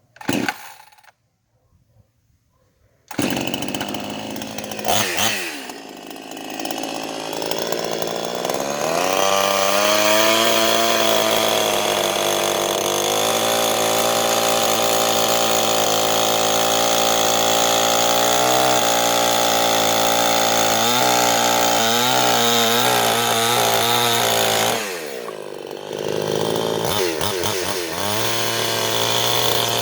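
Chainsaw starting up about three seconds in, revving, then running steadily at high speed as it cuts slices off a log. It eases off briefly near the end and revs up again.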